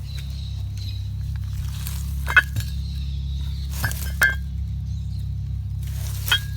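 A few short metallic clinks, the loudest about two seconds in, over a steady low hum.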